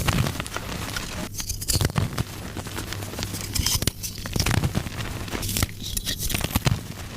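Soft gym chalk being crushed and crumbled, a series of powdery crunches and crackles that come every second or two.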